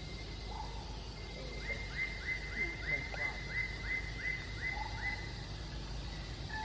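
A bird calling a quick series of about ten short rising notes, about three a second, over a steady low outdoor background hum.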